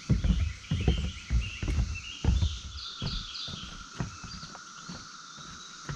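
Steady drone of a periodical cicada chorus with songbirds chirping over it. Through the first three seconds, low thumps about twice a second, from footsteps on the trail, are the loudest sound.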